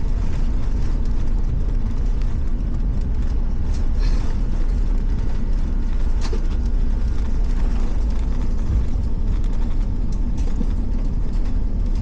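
Steady low rumble inside the cabin of an Airbus A350, even in level with no sudden sounds.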